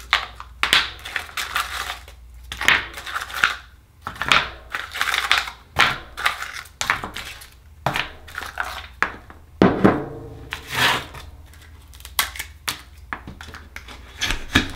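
Akoya oyster shells clattering, crunching and scraping against each other in irregular bursts as a batch of oysters is handled and opened.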